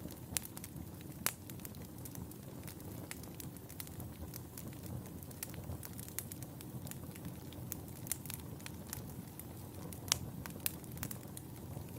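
Wood fire burning in a fireplace: a steady low rumble of flame with frequent irregular sharp crackles and pops, a few louder snaps standing out.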